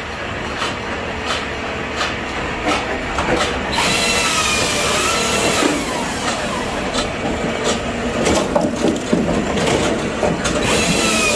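Machinery working oak firewood: regular knocks about every half second or so, then a motor whine that bends up and down in pitch over a rushing, clattering noise from about four seconds in.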